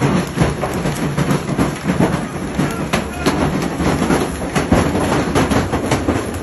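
Train running, with a steady rumble and frequent sharp clacks from the wheels.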